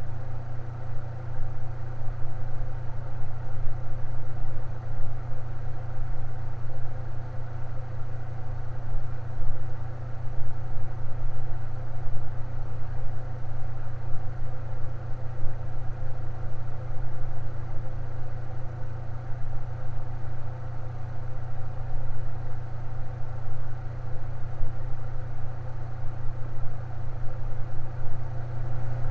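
Electric fan running at a constant speed: a steady low hum with fainter higher tones above it, unchanging.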